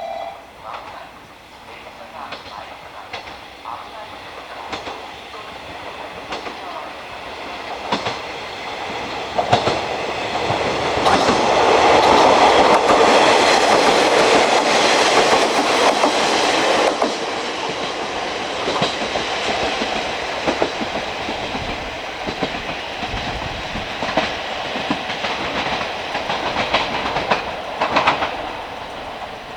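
A train running by on the rails, its wheels clacking over the rail joints; the sound builds to its loudest around the middle, then the clacking goes on steadily at a lower level.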